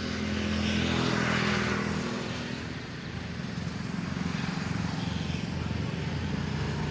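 A vehicle engine running steadily on the road, with a swell of road and tyre hiss that rises and fades between about half a second and two seconds in.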